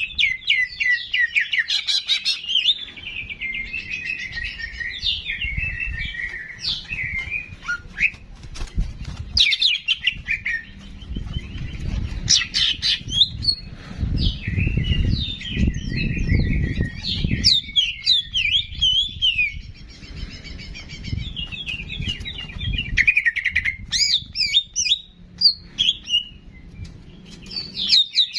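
Ki jenggot songbird singing a fast, chattering song of rapid rising and falling chirps and whistles, with short pauses between phrases. A low rumble runs underneath.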